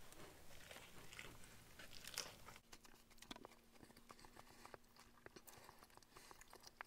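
Faint sounds of a person biting into and chewing a peri peri chicken burger, mostly over the first two seconds or so, then a few small mouth clicks. A faint steady hum comes in about halfway through.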